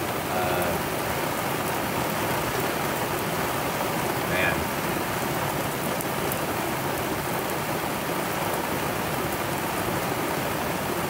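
Heavy rain pouring steadily onto a sailboat's cockpit enclosure, with fine patter of drops.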